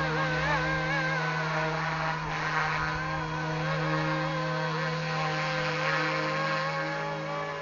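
Yuxiang Airwolf RC scale helicopter in flight: a steady hum from its motor and rotors, with a whine above it that wavers up and down in pitch as it manoeuvres.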